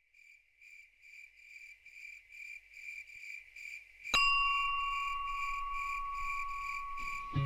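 Crickets chirping in a high, even pulse, about three chirps a second, slowly growing louder. A little past halfway a single bell-like chime is struck and rings on, fading slowly.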